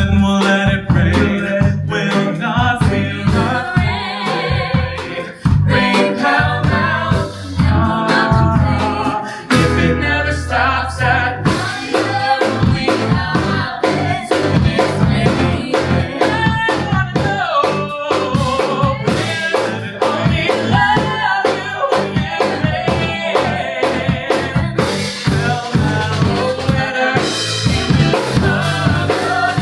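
Live folk-rock band playing, with drum kit, bass, guitar and piano under voices singing.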